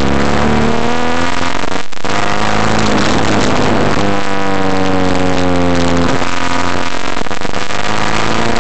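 Daewoo Lanos exhaust with a 52 mm stainless steel pipe as the car accelerates. The engine note climbs, breaks off briefly about two seconds in and drops again about six seconds in, like gear changes, and climbs again after each.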